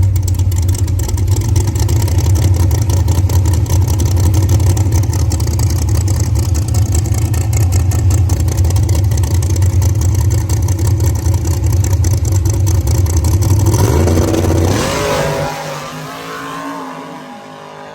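Drag race car engine running hard at a steady high level. About 14 seconds in the throttle comes off, and the note falls away to a quieter, lower running sound.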